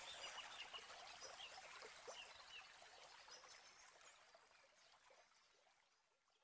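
Near silence: faint trickling water with a few small chirps, fading out to silence, the nature-sound tail of a new-age music track.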